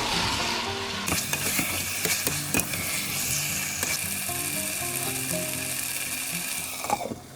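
Marinated chicken pieces sizzling in a masala of onion, tomato and yogurt while a spatula stirs them, with scattered clicks and scrapes against the pan. The sizzle cuts off suddenly near the end.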